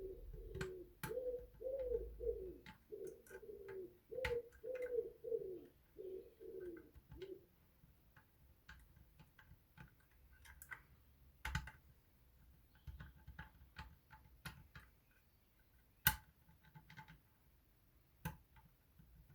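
Scattered light metallic clicks and ticks of picks and a tension tool working the levers of a Union 3G110 five-lever lock, one sharper click about sixteen seconds in. For the first seven seconds or so a pigeon coos repeatedly in the background.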